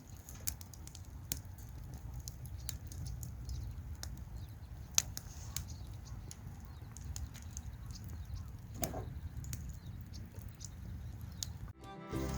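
Wood campfire crackling: irregular sharp pops and snaps over a steady low rumble. Music starts just before the end.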